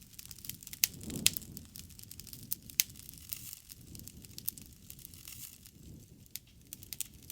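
Wood campfire crackling: sharp pops and snaps scattered irregularly throughout, over a low rumble of burning that swells about a second in and again around four seconds.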